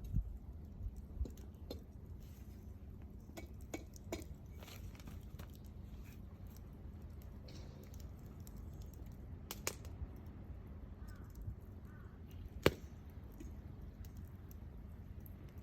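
Wood bonfire crackling: scattered snaps and pops of burning wood over a low steady rumble, with one loud sharp pop about three-quarters of the way through.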